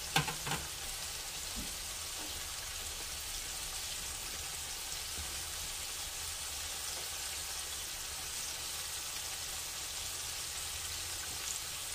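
Flour-dredged pork neck bones frying in oil in a skillet, with a steady sizzle as the first side browns at medium-high heat. A couple of sharp clicks sound right at the start.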